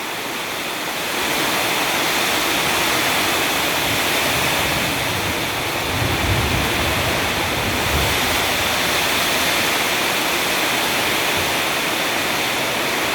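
Heavy rain pouring down in a steady, loud rush, with a brief low rumble about six seconds in.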